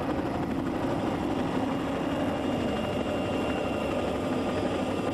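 Steady engine drone, holding at an even level with no breaks.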